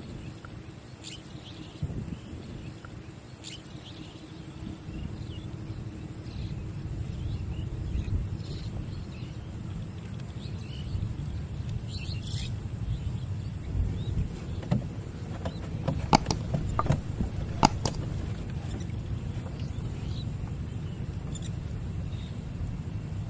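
Outdoor rural ambience: a steady high-pitched drone with a low rumble beneath, faint bird chirps, and two sharp clicks a little past the middle.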